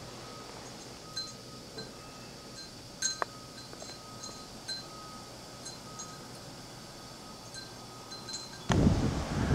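Wind chimes tinkling faintly and irregularly in the storm wind, their short ringing notes sounding at a few fixed pitches. Near the end a loud gust of wind hits the microphone.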